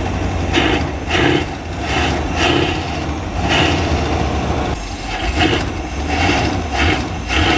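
Winnebago Minnie Winnie motorhome engine running unevenly: a steady low rumble with a surge about once a second. It is being kept alive by working the gas while holding the brake.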